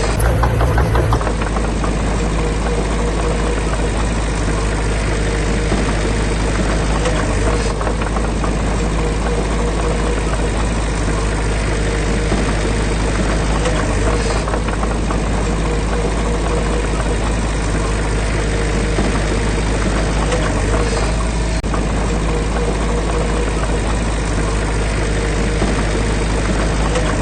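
Heavy diesel engine of a construction machine running steadily at a constant speed.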